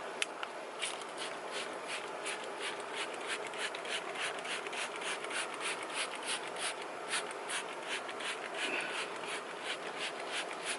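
Trigger spray bottle squirting tire cleaner onto a tire in quick repeated pulls, short scratchy spurts about three or four a second.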